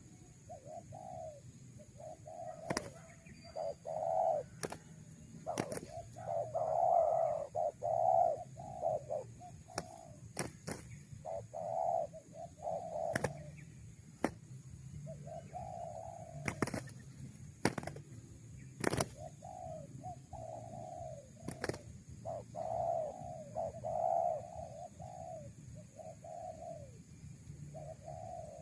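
Spotted doves cooing over and over in short phrases of a few low coos, with about a dozen sharp clicks scattered through.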